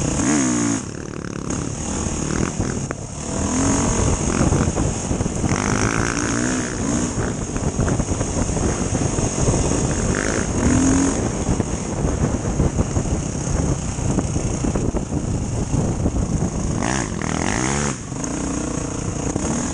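Motorcycle engine running under way, its pitch rising and falling with the throttle and gear changes every few seconds.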